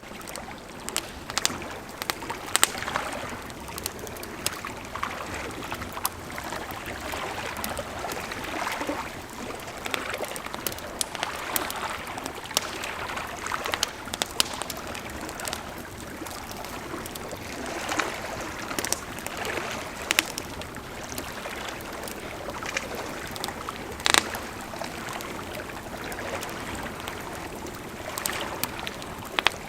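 A river flowing steadily, with a campfire crackling over it in irregular sharp pops and snaps.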